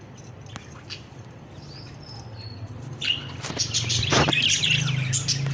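Parrots chirping, with a flutter of wings about three to four seconds in, over a steady low hum.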